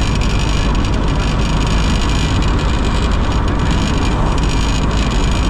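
Steady rumble of a moving vehicle: engine and road noise with no change in pace.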